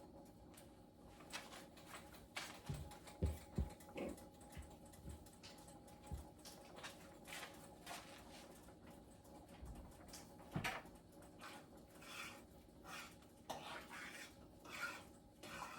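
Faint kitchen work sounds: scattered light clicks and knocks of dough being handled and dropped into a pot, with a few dull thumps about three seconds in and again near eleven seconds, over a faint steady hum.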